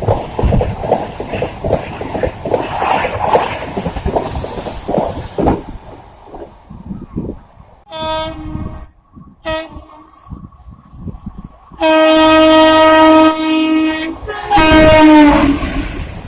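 Train wheels clattering rapidly over rail joints, then a locomotive horn: two short blasts, a long blast, and a final blast that falls in pitch as the train passes.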